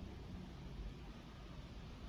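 Electrolux LPE16 washing machine running faintly, a low, uneven hum.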